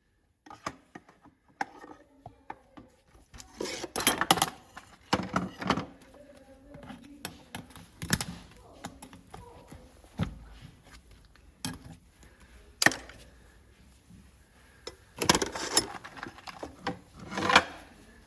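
Farrier's tools working a horse's hoof: short bursts of scraping strokes, between scattered sharp clicks and knocks.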